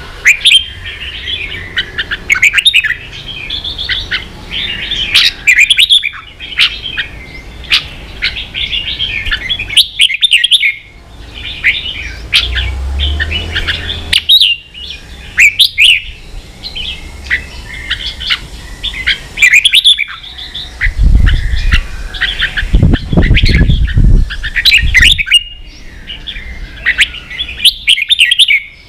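Red-whiskered bulbul singing in quick chirping phrases broken by short pauses. A low rumble comes in about two-thirds of the way through.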